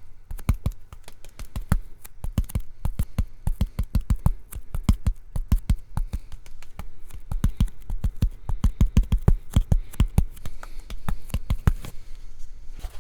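Fast, rhythmic ASMR finger tapping on a hard surface, several sharp taps a second, each with a low thud.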